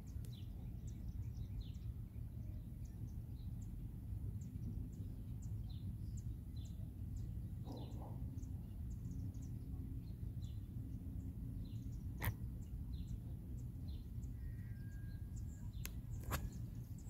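Small birds chirping in short, repeated calls over a steady low outdoor rumble. Near the end there are a few sharp clicks.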